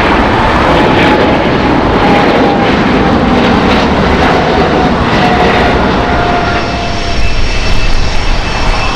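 Boeing 777-300ER's twin GE90-115B turbofans at takeoff power during the departure, a loud rush of jet noise. A high engine whine falls steadily in pitch as the aircraft passes, and the sound gives way to a deeper rumble near the end.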